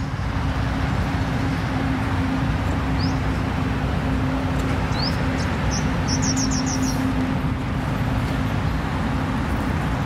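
Bird calling with a few short rising chirps, then a quick run of about six high chirps around six seconds in, over a steady low rumble with a faint hum.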